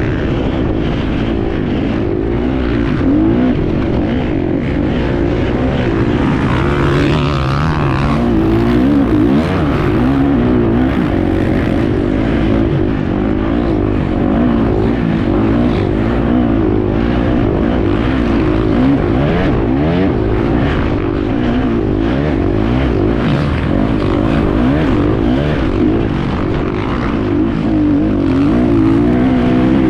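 Enduro motorcycle engine heard from on board while racing, its pitch rising and falling constantly as the rider works the throttle. Frequent short knocks run through it.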